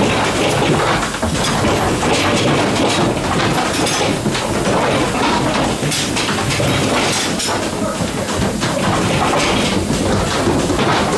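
Goat milking machine running: a steady loud hiss with rapid clicking and clatter from the milking equipment.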